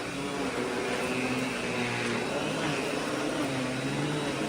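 Miele S8 Cat & Dog canister vacuum running steadily with its power nozzle: a motor hum with held low tones over the rush of airflow, quiet enough to talk over.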